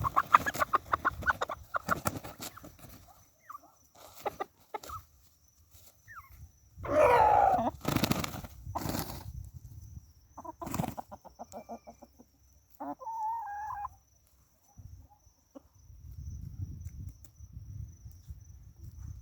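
Free-ranging chickens clucking in quick runs of short notes, with a louder, longer wavering call about seven seconds in and a short call a few seconds later.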